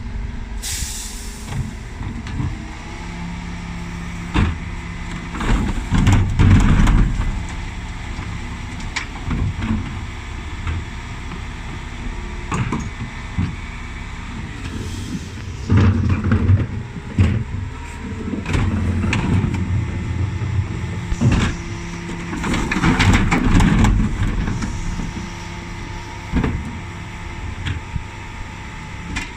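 Dennis Elite 6 refuse truck's engine running while the Terberg bin lift works, with repeated knocks and clatters of wheelie bins being lifted and emptied. A short hiss of air comes about a second in.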